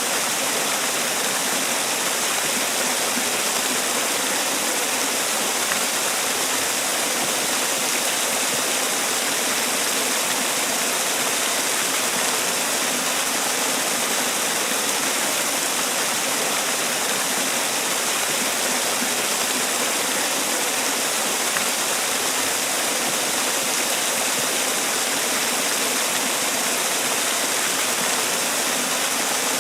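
Man-made waterfall: water pouring and splashing in a steady, unbroken rush, bright and hissy with little low rumble.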